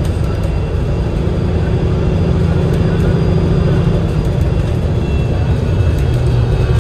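An Enviro500 MMC double-decker bus under way, heard on board, with its Cummins L9E diesel engine and Voith DIWA automatic gearbox running. It makes a steady, loud low drivetrain rumble.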